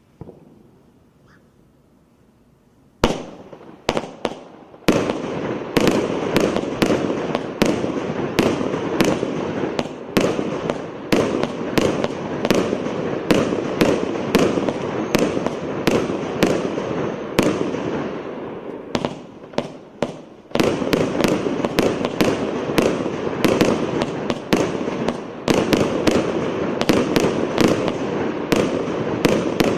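A 600-shot firework cake firing: after about three seconds of quiet the first few shots go off, then a rapid, continuous barrage of launches and crackling bursts, with a brief lull about two-thirds of the way through.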